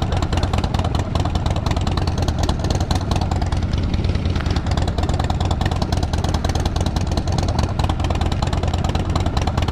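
Triumph 900 motorcycle engine running steadily under the rider, an even engine note with no revving up or down.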